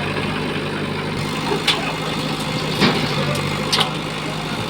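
Tractor diesel engine idling steadily, with three sharp knocks or clanks in the second half.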